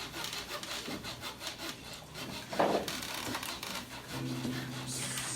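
Hand-made foley: rapid rasping strokes of an object rubbed or scraped like a saw on wood, standing for the cat going outside to pee. A short louder scrape comes about two and a half seconds in, and a low steady tone joins about four seconds in.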